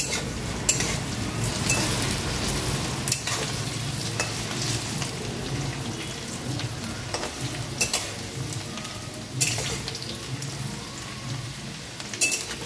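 Cubed potatoes frying in hot oil in a metal kadai, a steady sizzle, stirred with a spatula that knocks against the pan a few times.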